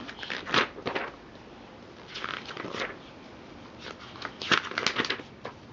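Paper cards and pages being handled: a few short rustles and taps, in two small clusters, one about two seconds in and one near the end.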